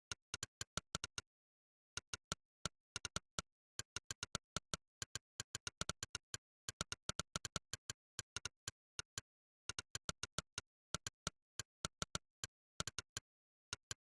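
Monkeytype's synthesized "click" keypress sound, one short click per keystroke, coming in uneven runs of several a second with brief pauses between words, over digital silence.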